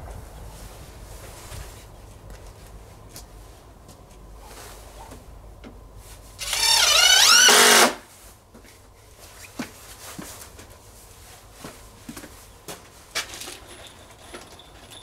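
A small electric tool motor runs in one burst of about a second and a half midway, its whine sweeping up and down in pitch. A low rumble fades out before it, and a few light knocks follow.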